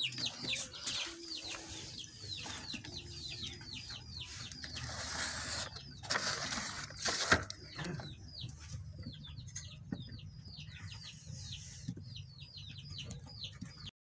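Small cage birds chirping steadily, many short falling calls several a second. Rustling bursts and a sharp knock about seven seconds in as the cage and water dish are handled.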